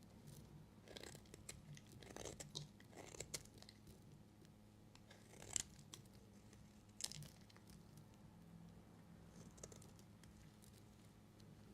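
Faint, scattered scrapes and small clicks of a knife cutting into a bar of soap, with two slightly sharper clicks about five and a half and seven seconds in.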